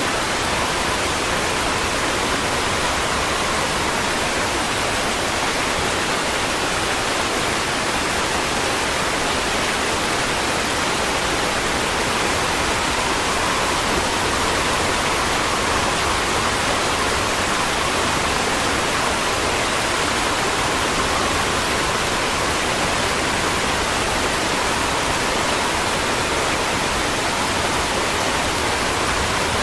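Rain falling steadily: an even, unbroken hiss of dense rainfall with no separate drops or thunder standing out.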